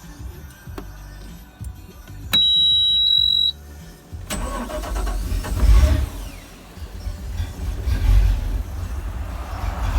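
Svfara surf boat's engine starting for the first time: a high electronic warning beep sounds for about a second, then the engine catches about four seconds in and runs with a low rumble, swelling in level a couple of times as it is revved.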